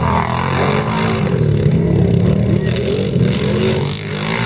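Quad-bike (ATV) engines running and revving, their pitch rising and falling.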